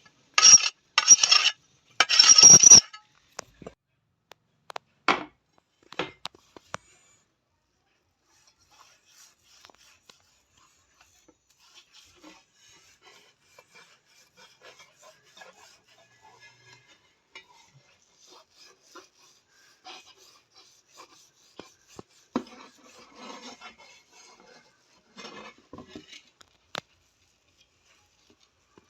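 A few loud rasping strokes of metal scraped over the iron tawa in the first three seconds, then scattered light clinks and soft scraping.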